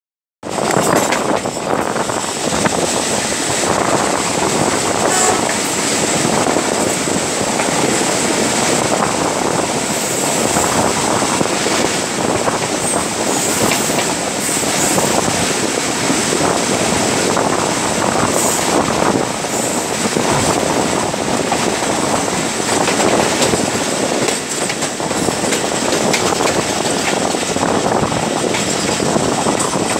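Passenger train's coach wheels running on the rails, heard close up from an open door or window with wind rush, clattering over rail joints and points as the train runs into a station, with a few brief high squeals.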